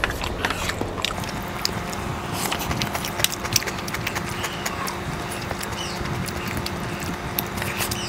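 Close-miked chewing and slurping of fried noodles: wet mouth clicks and smacks scattered throughout, over a steady low hum.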